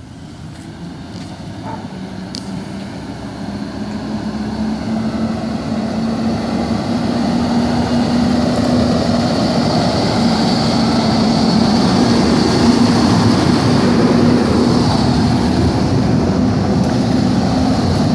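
Garbage truck's diesel engine running with a steady droning note, growing louder over the first several seconds, then holding loud.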